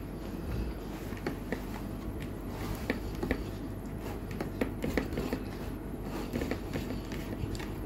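Close-up mouth sounds of chewing rice with irregular soft clicks and smacks, along with fingers mixing and pressing rice on a plate.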